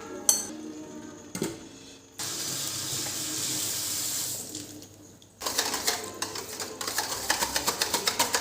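Kitchen tap running into a sink for about two seconds, then shut off. About a second later a fast, even run of sharp knocks starts, roughly five a second.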